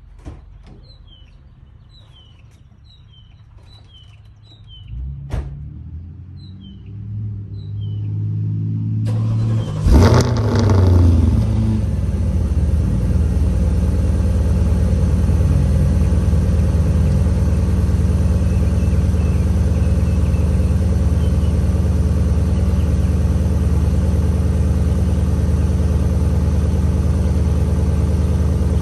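Porsche Cayenne GTS engine cold-starting: a low hum builds for a few seconds, then about nine seconds in the starter cranks and the engine catches with a short rev flare. It then settles into a steady cold-start idle. Birds chirp faintly in the first few seconds.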